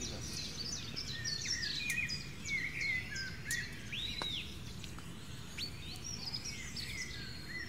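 Small birds chirping in many quick, short notes, with one clear arched whistle rising and falling about four seconds in, over a steady low background rumble.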